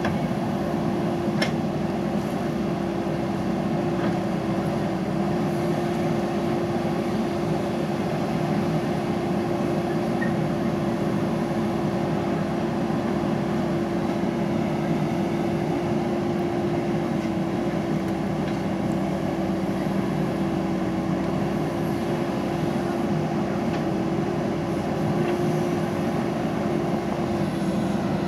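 JCB backhoe loader's diesel engine running steadily while working, a constant drone with a steady hum over it. A single sharp click sounds about a second in.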